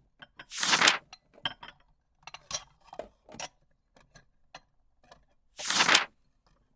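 Kitchen preparation sounds: a scatter of light clicks and clinks, like utensils and dishes being handled, with two short rushing noises about five seconds apart.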